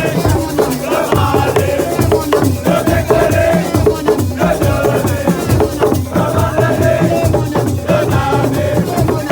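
Live assiko music: drums and shakers playing a dense, driving rhythm, with voices singing over it.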